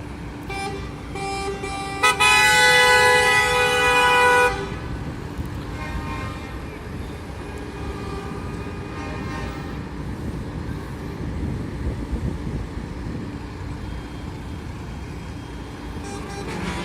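Truck air horns sounding: one loud blast of about two and a half seconds a couple of seconds in, with shorter, fainter horn toots before and after, over steady low background noise.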